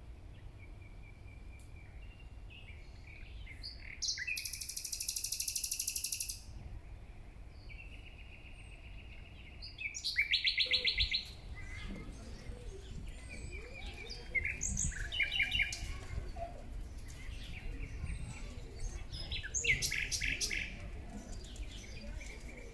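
Songbirds chirping and singing in short, fast trills, the loudest bursts about four and ten seconds in, over a faint low rumble.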